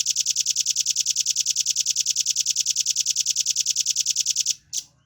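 Velvet-fronted nuthatch (rambatan paruh merah) giving a fast, even, high-pitched trill of about ten sharp notes a second. The trill stops about four and a half seconds in, and one more short note follows.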